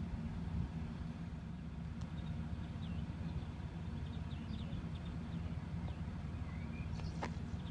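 A steady low engine hum, with small birds chirping over it several times and a single click near the end.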